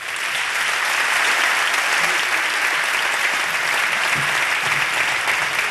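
An audience applauding, starting suddenly and continuing steadily.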